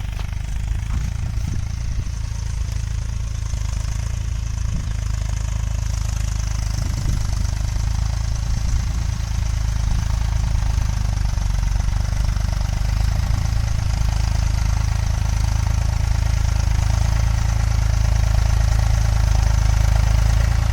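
Eicher diesel tractor engine running steadily while pulling a mouldboard plough. It is a deep, even engine sound that grows gradually louder.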